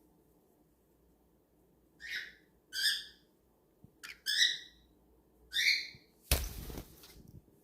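Cockatiel giving four short chirping calls. About six seconds in comes a sudden loud burst of noise lasting under a second, then fading.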